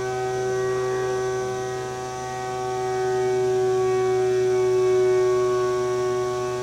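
A 3/4-inch end mill cutting aluminum in a CNC machining center at about 7,650 RPM, 228 inches a minute. It sings with a steady pitched tone made of several evenly spaced notes, over a lower hum, and swells slightly in loudness partway through.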